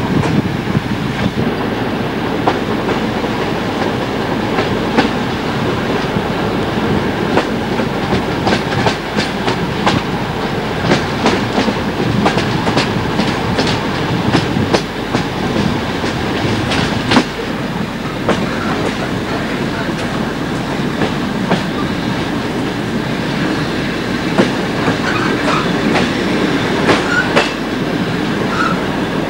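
Passenger train running along the line, heard from inside the carriage: a steady rumble and hiss, with runs of sharp clicks as the wheels cross rail joints.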